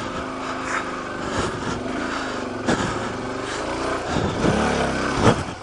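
Suzuki DR-Z400's single-cylinder four-stroke engine revving up and down as the dual-sport motorcycle climbs a rocky trail, with a couple of sharp knocks.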